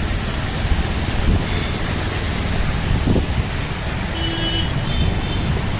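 Road traffic noise, a steady rushing hiss and rumble of passing vehicles, with a short vehicle horn toot about four seconds in.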